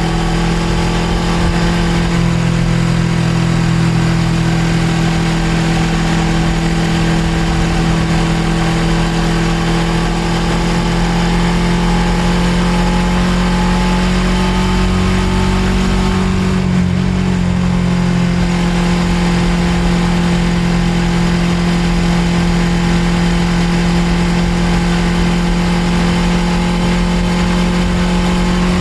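Suzuki GSX250R's parallel-twin engine running steadily under way, its pitch creeping slowly upward, with a brief dip a little past halfway.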